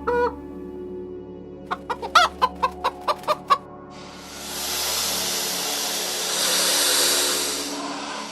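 A chicken clucking: a quick run of about ten short clucks, followed from about four seconds in by a steady, loud hiss, over soft background music.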